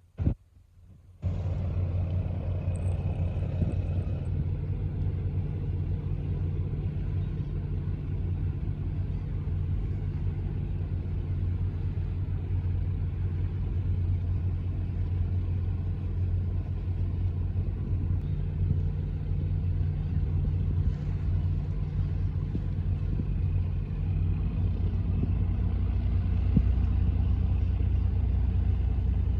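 Squid-fishing boat's diesel engine running steadily with a low hum, a little stronger near the end. The sound drops out briefly in the first second.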